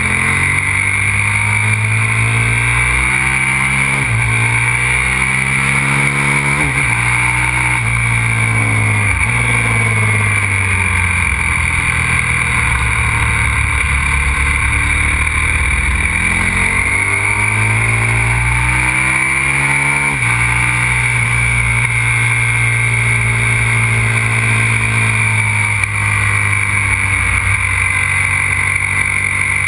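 Aprilia RXV 550 supermoto's V-twin engine under hard acceleration. Its pitch climbs and drops sharply at each upshift, falls away while easing off mid-way, then climbs again, over a steady rush of wind noise.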